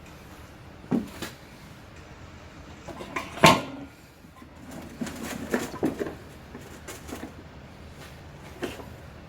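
Scattered knocks and clatters of objects being handled, the loudest about three and a half seconds in and a short cluster a little later.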